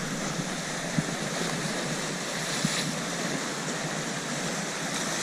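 Sea washing against a sea wall, a steady rushing noise, with a couple of faint clicks about one and two and a half seconds in.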